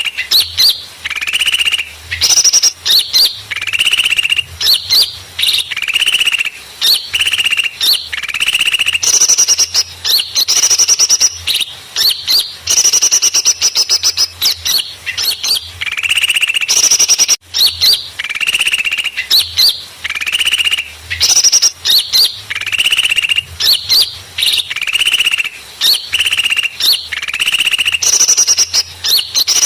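Bird-lure recording of small birds calling noisily: rapid buzzy chattering trills, each about a second long, repeated over and over with short gaps.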